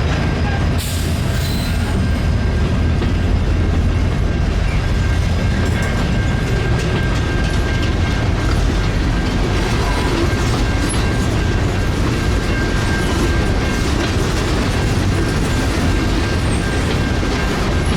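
Freight train cars rolling past on the rails, a steady loud rumble of wheels with clickety-clack and a thin high whine over it.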